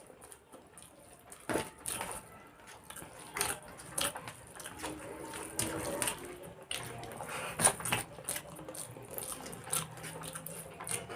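Eating sounds of chicken curry and rice: wet, squishy handling of the food with scattered sharp clicks and clinks, loudest about one and a half and seven and a half seconds in.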